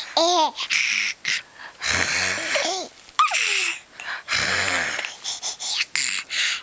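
A baby and her mother trading raspy, wheezy throat noises, as if the throat itched, in turns of under a second each, with short high squeals from the baby in between.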